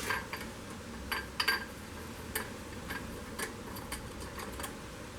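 Irregular light metallic clicks and taps of hand tools working on metal engine parts, about a dozen in all, stopping shortly before the end.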